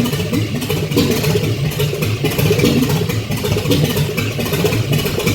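Cadillac Coupe DeVille engine running on its first start-up, loud and uneven. The ignition timing is not yet set right.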